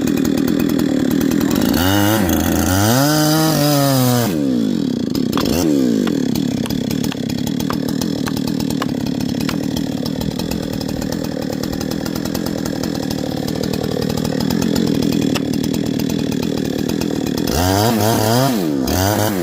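Chainsaw running steadily under load in a cut. About two seconds in, and again near the end, an engine note swoops up and back down.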